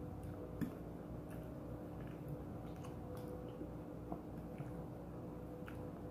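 Chewing and wet mouth sounds of someone eating, with scattered small clicks of a metal fork against a glass plate, the sharpest about half a second in. A steady low hum runs underneath.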